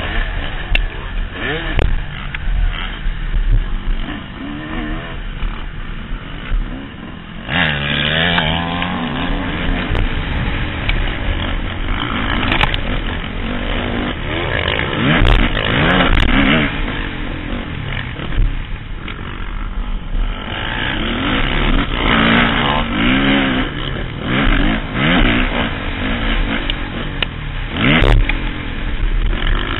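Motocross bike engine revving hard and backing off again and again as the rider works the throttle around the track, heard from a helmet-mounted camera with wind buffeting and the bike's clatter over the bumps.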